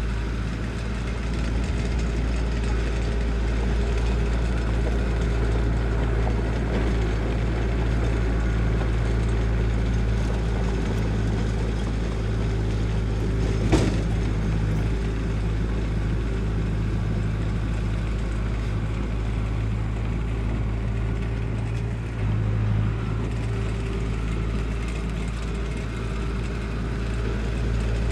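Diesel engine of heavy construction equipment (bulldozer or dump truck) running steadily, with one sharp knock about halfway through.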